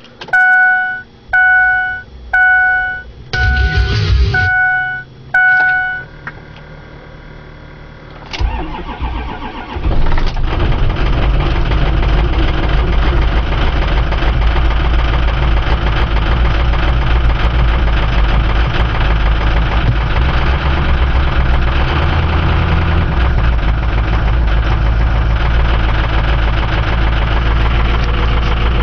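Ford 6.0 Powerstroke V8 turbo-diesel cold-starting at about 30°F: a chime dings about six times, then the engine cranks briefly, catches about ten seconds in and settles into a steady idle. It is a stock engine with a failing fuel injection control module (FICM).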